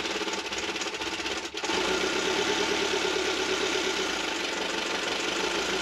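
Sailboat's inboard diesel engine starting from cold: the starter cranks for about a second and a half, then the engine catches and settles into a steady idle.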